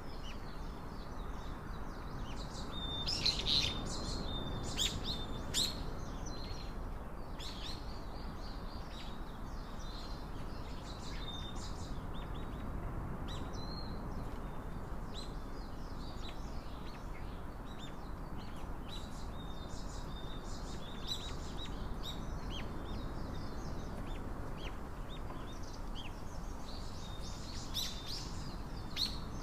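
Small birds chirping and calling, many short high notes scattered throughout, over a steady low background hum.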